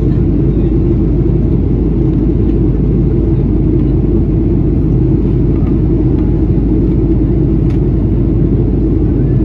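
Boeing 737-800 cabin noise in flight: the CFM56-7B engines and the airflow over the fuselage make a steady, even rumble.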